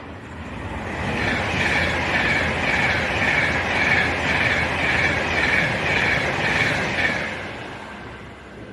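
Avanti West Coast Class 390 Pendolino electric train passing at speed without stopping, swelling up, running loud for about six seconds, then fading away. A high ringing pulses about twice a second as the coaches go by.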